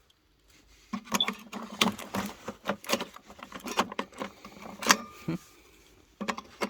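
Sharp plastic and metal clicks and rattles of an opened Makita 18 V battery pack being handled and fitted onto its charger. The clicks start about a second in and stop shortly before the end.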